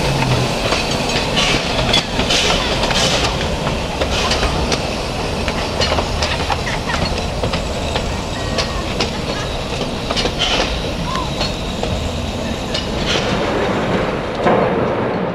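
Train rolling along the track: a steady rumble with irregular clicks of the wheels over the rail joints.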